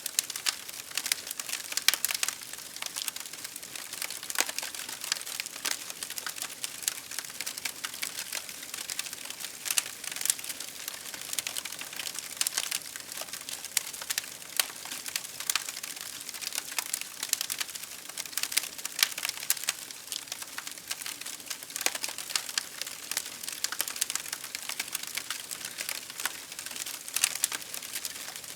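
Fire crackling in a fireplace: dense, irregular crackles and pops over a soft steady hiss.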